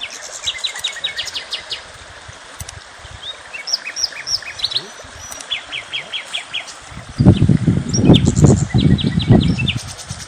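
Small songbirds singing: quick series of short high chirps and trills, several phrases repeating. About seven seconds in, a louder low rumble comes in gusts for about three seconds.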